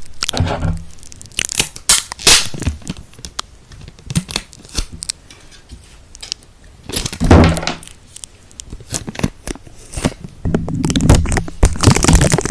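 Sticky ASMR trigger close to the microphone: a tacky surface pressed and peeled apart, giving irregular crackling, tearing pops. The pops come in scattered clusters and grow denser near the end.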